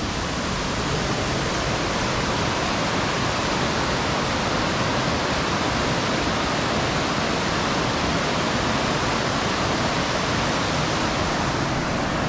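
Waterfall, its falling water making a steady, even rushing noise heard close by, near enough for the spray to reach.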